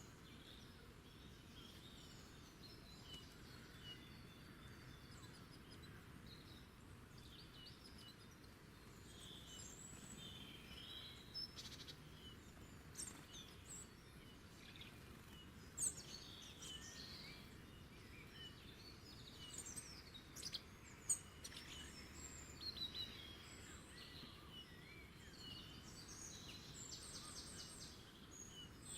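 Faint wild birds chirping and calling, many short scattered notes from several birds over a low steady hiss, with a few sharper, louder calls in the second half.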